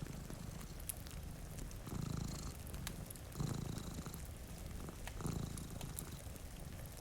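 Domestic cat purring, swelling and fading about every two seconds with its breaths, over scattered fireplace crackles and a soft hiss of rain.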